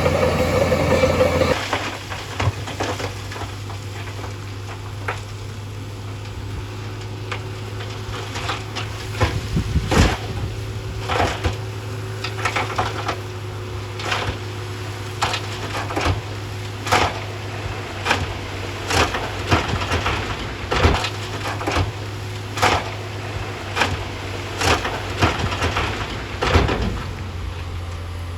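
Heavy earthmoving machine's engine running steadily, easing down after the first second or two, with repeated sharp cracking, crunching knocks about once a second.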